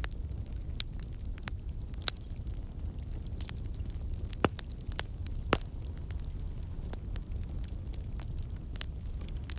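Wood fire burning in a fireplace, crackling with scattered sharp pops over a steady low rumble; two louder pops come about four and a half and five and a half seconds in.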